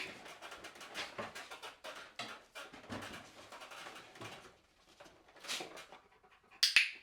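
Rottweiler panting in quick, short breaths, easing off after about four seconds, with a short sharp noise near the end.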